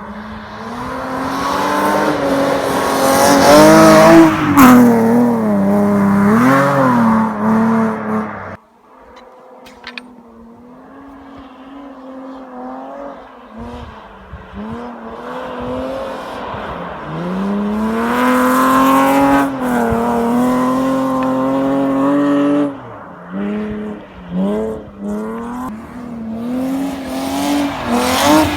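BMW 325i E36 rally car's straight-six engine revving hard, its pitch climbing and falling with gear changes. About eight seconds in the revs drop off suddenly to a low, quiet run, then build again to high revs, with a string of quick lifts and blips near the end.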